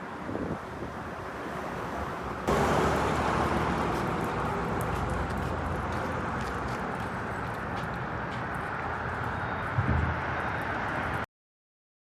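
Outdoor city street noise with passing traffic, a steady rumble without clear tones. It jumps louder at a cut about two and a half seconds in and stops dead shortly before the end.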